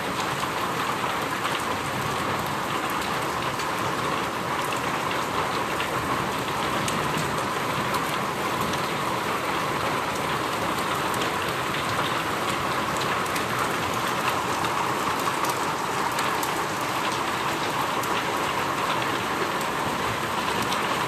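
Steady rain falling, with individual drops striking a surface as many small, scattered ticks.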